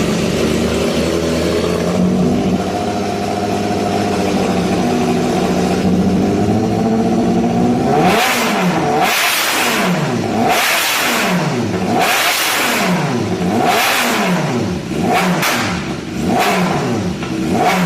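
High-powered motorcycle engine running steadily, then revved hard about eight seconds in: about seven quick throttle blips, each rising and falling sharply in pitch.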